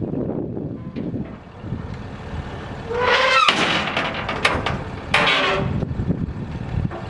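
Heavy truck with a low rumble throughout. A loud squeal with a sharp edge comes about three seconds in, and a short burst of hissing noise about five seconds in.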